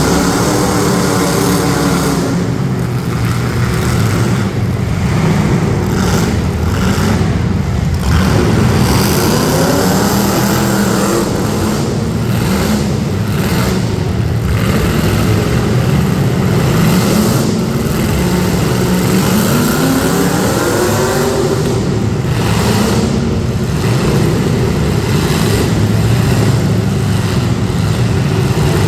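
Several demolition derby street stock car engines running hard together, revving up and down over and over, with scattered sharp knocks among them.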